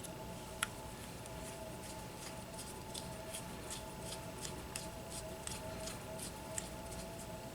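Light, even clicks about four a second from a small hand tool being worked at a workbench, over a steady electrical hum.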